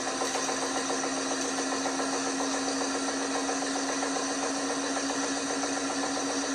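LG washing machine running, its drum motor giving a steady hum with one constant tone.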